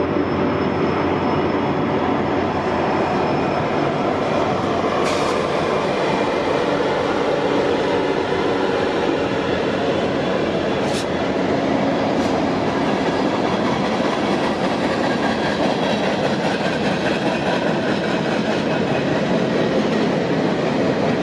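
Union Pacific freight train passing: its diesel locomotives run by for the first nine seconds or so, then the steady rolling of freight cars follows, with wheels clacking over the rails and a few sharp clicks.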